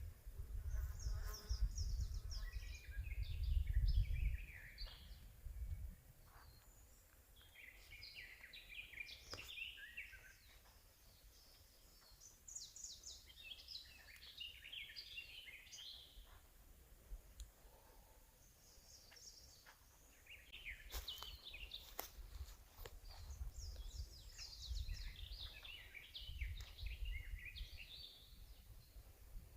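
Forest songbirds singing in short, warbling phrases every few seconds, with a low rumble of wind on the microphone in the first few seconds and again near the end.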